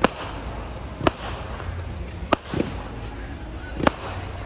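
Fireworks: aerial shells bursting in the sky, four sharp bangs about a second and a half apart, each trailing a short echo.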